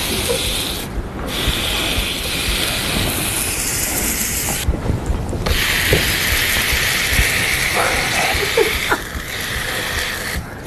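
Ham sizzling on a portable grill, a steady hiss that cuts out briefly three times, with scattered clicks and clatter of cooking utensils.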